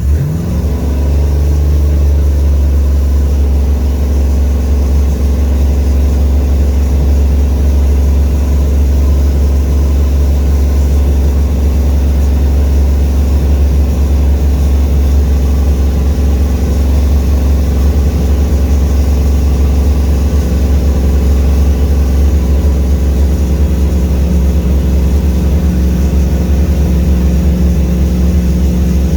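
LS2 V8 engine idling steadily with the air-conditioning compressor engaged.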